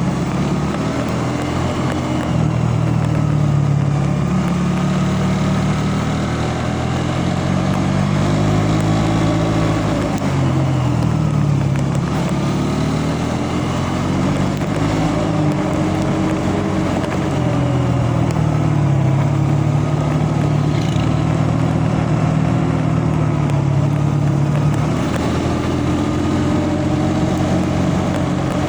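Vehicle engine running steadily, its pitch rising and falling several times as it speeds up and eases off.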